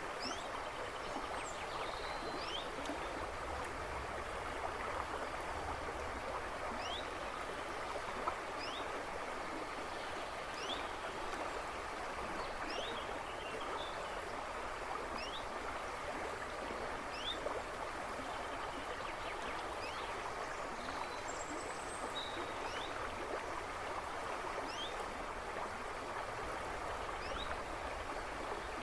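A river splashing and rushing over stones, a steady even sound, with birds chirping in the woods behind it. One bird repeats a short, quick rising note every second or two.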